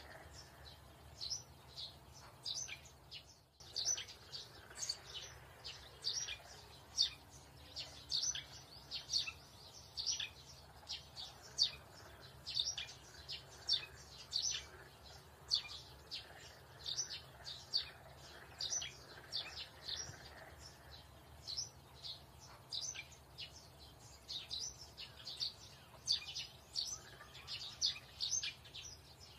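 Birds chirping: short, high chirps in quick clusters, several a second, with a brief dropout a few seconds in.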